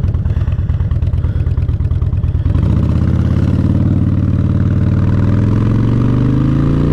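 Motorcycle engine idling with a fast low pulse, then settling into a steadier, slightly higher note about two and a half seconds in, with the pitch starting to rise near the end as the bike pulls away.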